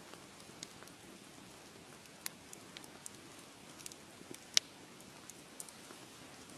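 Fireplace fire crackling: a soft steady hiss with frequent small sharp pops, one much louder snap about four and a half seconds in.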